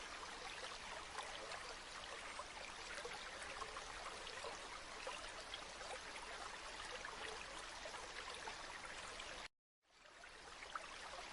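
Steady flowing stream water, a continuous babbling rush. About nine and a half seconds in it cuts out completely for a moment, then fades back in, the seam of a looped sound effect.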